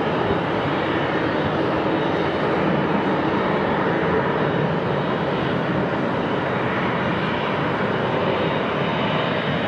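Boeing 737 jet engines during landing: a steady rushing noise with a faint high whine.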